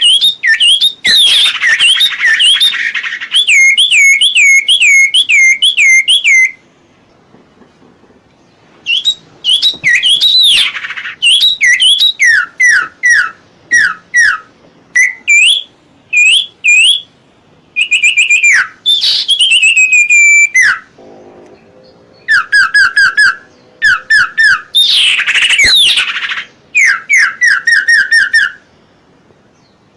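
A small songbird singing loud phrases of quick, repeated swooping whistled notes, several a second, with short pauses between the phrases.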